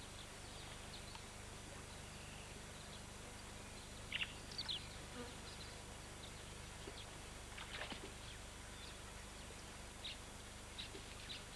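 Faint field ambience at a waterhole: insects buzzing steadily, with a few short high bird calls scattered through it, the clearest about four seconds in and again near eight seconds.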